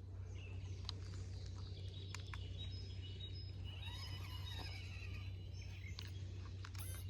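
Birds chirping and calling over a steady low rumble, with a few sharp clicks.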